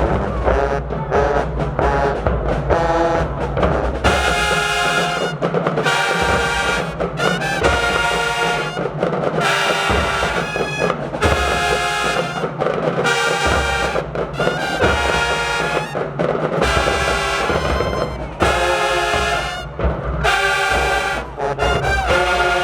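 Marching band playing: drums and low brass at first, then from about four seconds in the full brass section plays loud, short, repeated chords over the drums.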